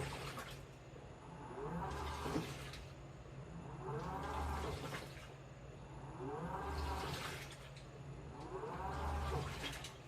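Washing machine in its wash: the motor whines up and back down about every two and a half seconds as it turns the load one way, then the other, with water swishing each time.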